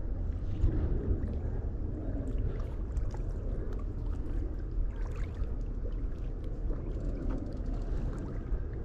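Steady low rumble of a small boat moving on the river, with faint scattered ticks.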